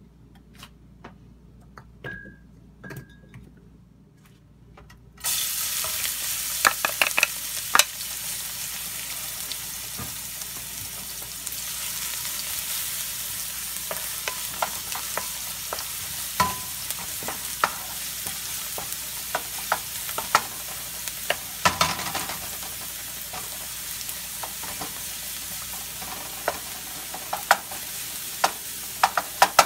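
Minced garlic and chili frying in hot oil in a wok. The sizzle starts suddenly about five seconds in and then runs steadily, while a wooden spatula stirs and scrapes against the pan, making frequent sharp clicks and taps.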